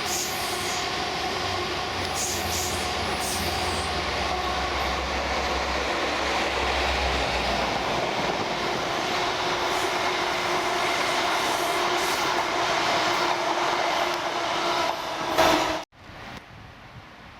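Train running on rails: a steady rumble with a couple of steady humming tones and a few clicks in the first few seconds. Near the end it cuts off suddenly to a much quieter, wind-like hiss.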